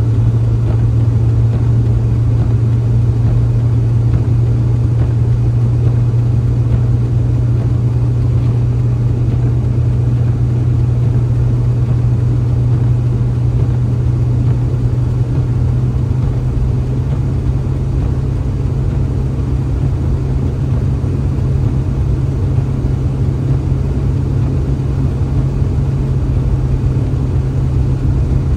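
A motor vehicle's engine and road noise while driving: a steady low drone with no change in speed.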